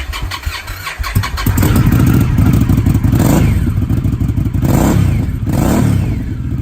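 2019 Indian Scout Bobber's V-twin running through the Indian Performance Upgrade slip-on exhaust. It idles briefly just after starting, then is revved repeatedly from about a second and a half in, with three sharp throttle blips.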